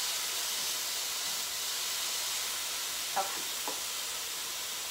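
Diced vegetables sizzling in a frying pan: a steady frying hiss, with two brief light clicks a little after three seconds in.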